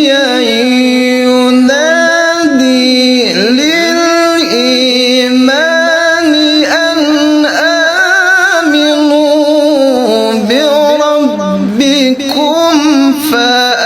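A single voice reciting the Quran in the melodic tilawah style, held notes with a wavering vibrato and long ornamented swoops up and down in pitch, as in voice-stretching (tarik suara) practice.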